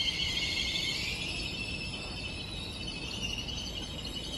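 Train at a station: a high-pitched metallic whine made of several steady tones, easing a little after about a second, over a low rumble.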